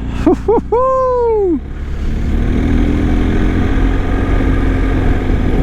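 A rider's drawn-out exclamation rising then falling in pitch, then a motorcycle engine running steadily under road and wind noise while riding.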